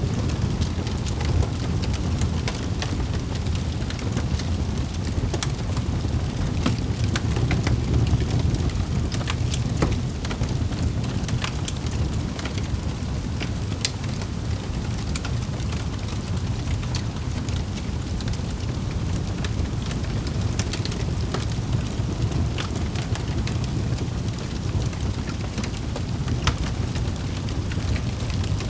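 Wood fire crackling in a fireplace: a steady low rumble of burning with frequent small sharp pops and snaps scattered throughout.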